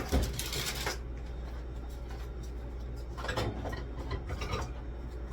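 Household items being handled and moved about: a brief scrape or rub in the first second, then a few light knocks and clicks over a steady low hum.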